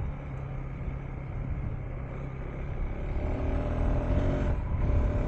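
KTM 390 Enduro R's single-cylinder engine running under way on a dirt track, with a steady engine note over wind and tyre noise; a clearer pitched engine tone comes in about three seconds in.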